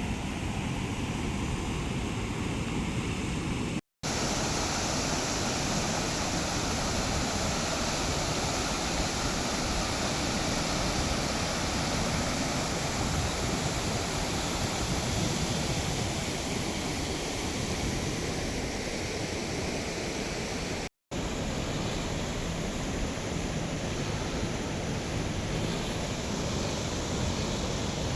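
Floodwater rushing over a bridge in a steady, even wash of noise, cut off briefly twice by edits.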